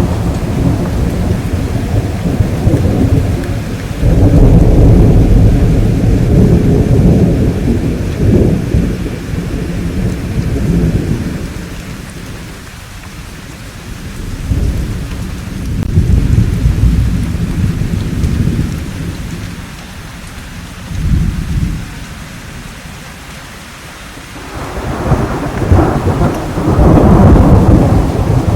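Thunderstorm: steady rain with rolling thunder, several long low rumbles that swell and fade, the loudest about four seconds in and again near the end.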